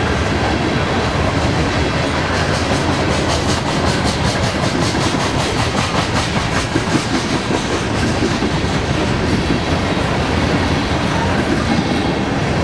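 Freight train cars rolling past close by, a steady loud rumble of wheels on rail. For a few seconds near the start, the wheels click over rail joints in a quick even rhythm.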